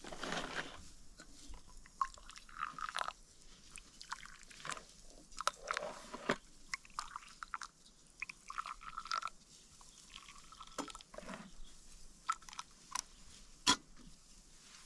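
Dry wheat stalks crunching and snapping as they are cut with a hand sickle and gathered, in irregular crisp bursts.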